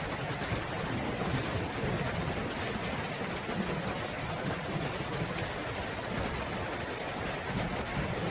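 Steady rain falling, with an uneven low rumble underneath.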